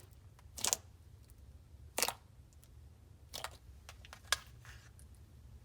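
Basic slime being handled: about four short, sharp squishing pops, a second or so apart, over a faint low hum.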